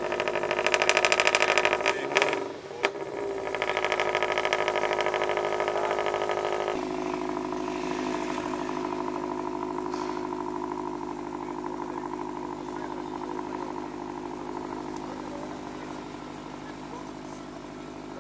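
Car engines running: a loud, steady engine note for about the first seven seconds, with a short dip about two seconds in, then a lower, steady engine note that slowly fades as cars pull away.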